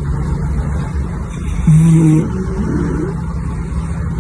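Sleeping dog snoring, a steady low rumble, with a short pitched sound about two seconds in.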